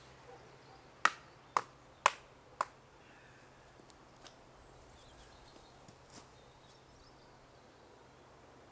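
Four sharp knocks about half a second apart, typical of a felling wedge being struck into the cut to free a pinched chainsaw bar.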